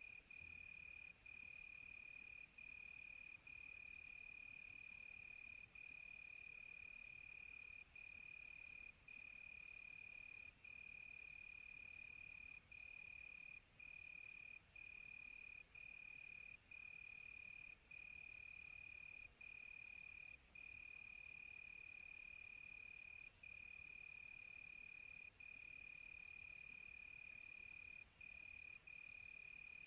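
Crickets chirping in one steady, high-pitched trill, broken by very short gaps about once a second, over a faint high hiss.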